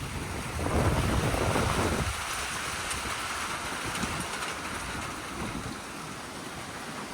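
Strong storm wind gusting and rushing through trees, with wind buffeting the microphone; a louder gust swells up about a second in and eases off, leaving a steady rush.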